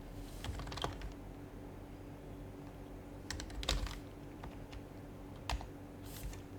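Typing on an HHKB Professional HYBRID Type-S keyboard with Topre capacitive switches: short bursts of soft keystrokes separated by pauses, with one lone keystroke about five and a half seconds in.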